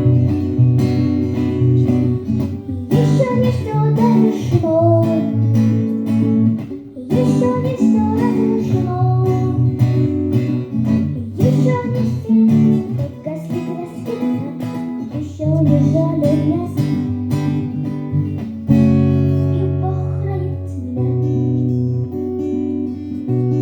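Acoustic guitar played with strummed chords and a picked melody line, an instrumental break in a song.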